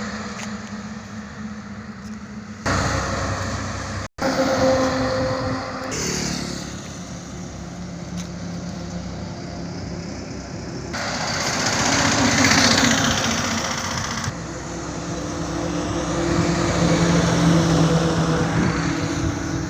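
Highway traffic: trucks and other vehicles driving past with engine and tyre noise, one passing close and loudest about twelve seconds in. The sound changes abruptly several times where short clips are joined.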